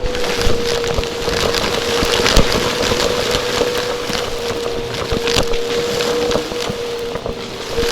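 Vacuum cleaner running close to the microphone, its motor holding a steady whine over a loud rushing hiss, with frequent clicks and crackles throughout.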